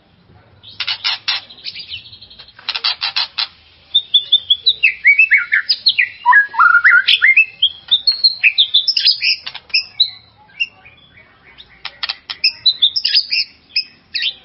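White-rumped shama (murai batu) singing: two bursts of rapid, harsh rattling notes in the first few seconds, then a fast, varied run of whistled notes sliding up and down, with a short pause about two-thirds of the way through before the notes resume.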